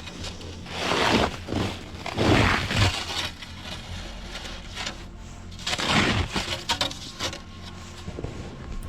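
Snow shovel scraping and crunching into packed snow, four or five separate strokes of about half a second each, spaced unevenly, with a steady low hum underneath.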